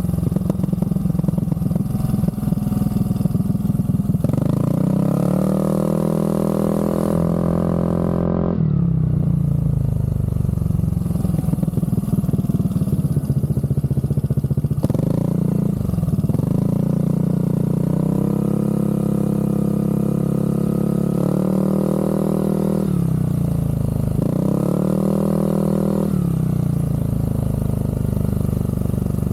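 Aprilia SR GT scooter's single-cylinder engine through an aftermarket Zard exhaust, revving up and settling back several times, its pitch climbing and holding before dropping away.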